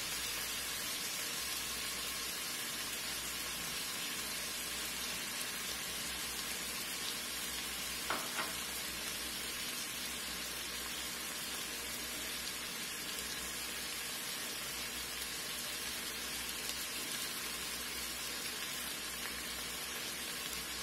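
Butternut squash cubes and bacon sizzling in the steel inner pot of an Instant Pot: a steady, even frying hiss. About eight seconds in there are two light knocks, the spatula being set down on the counter.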